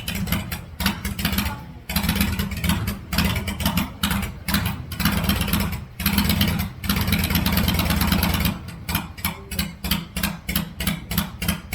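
Vintage motorcycle engine with manual total-loss oiling running, its separate firing beats audible at idle, revved up a few times so the beats blur together, then dropping back to a slow lumpy idle near the end.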